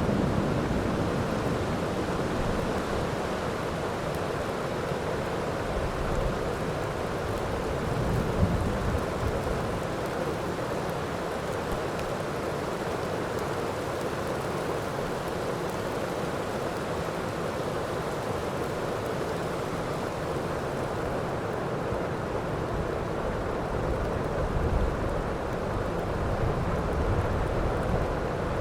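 Steady heavy rain, with a low rumble of distant thunder about eight seconds in. The opening moment carries the fading tail of a thunderclap.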